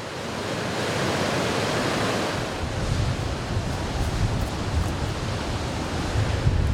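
Ocean surf washing onto the shore, one wave swelling and fading over the first couple of seconds. From about two and a half seconds in, wind buffets the microphone with a low rumble.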